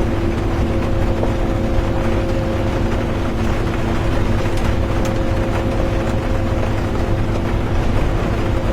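Inside a moving bus: a steady drone of the engine and drivetrain over a low road rumble, with an even hiss of rain and road noise. A few faint ticks come about halfway through.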